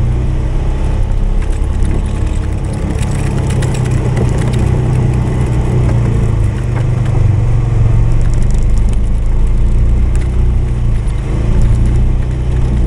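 Polaris 570's single-cylinder engine running steadily while plowing snow. The revs dip briefly about halfway through and pick up again.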